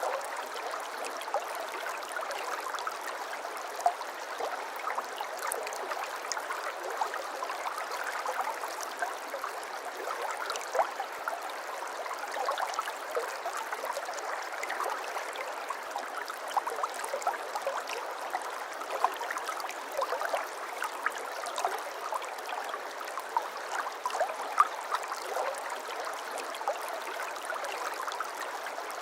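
Shallow stream of water flowing and trickling steadily, with many small splashes and burbles.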